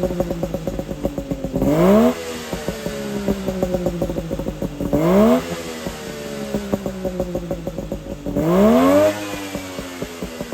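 Suzuki Jimny SJ30's two-stroke three-cylinder engine blipped three times through an Apio Matsumoto-style expansion chamber and muffler. Each time the revs climb quickly, then fall back slowly, with rapid uneven popping from the exhaust in between.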